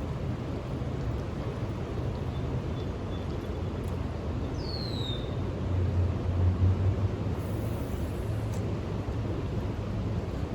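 Steady low outdoor rumble, a little louder for a moment past the middle, with one short falling whistle a little before halfway.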